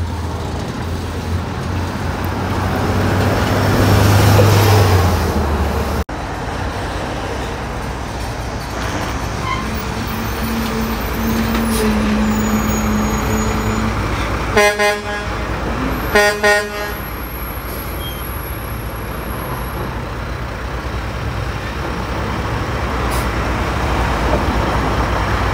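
Road traffic with heavy vehicles passing, and about halfway through a truck horn sounding two short blasts, the second one choppy.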